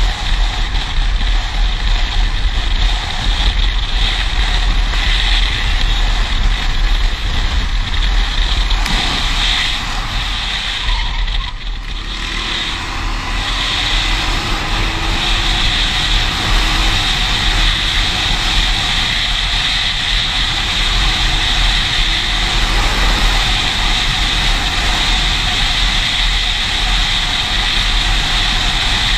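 Steady loud vehicle engine noise with a deep rumble, dipping briefly about twelve seconds in.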